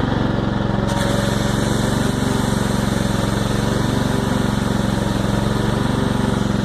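Tractor's small engine idling steadily, with a steady hiss starting suddenly about a second in.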